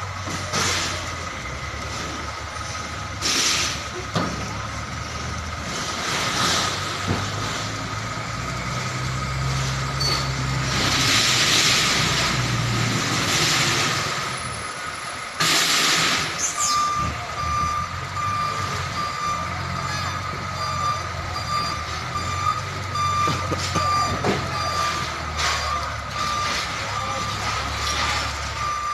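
A container trailer truck's diesel engine runs low and steady while its reversing alarm beeps over and over, most clearly in the second half. Several bursts of air hiss, typical of air brakes, break in, the loudest about halfway through.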